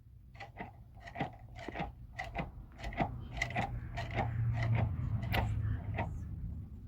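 Repeated hollow knocks and taps, like wood struck on wood, about two a second and uneven, over a low hum that grows louder in the middle.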